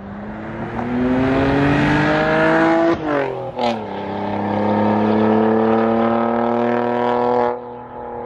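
Car engine accelerating hard through the gears: the note climbs steadily, drops at a gear change about three seconds in, then climbs again more slowly until the sound cuts off near the end.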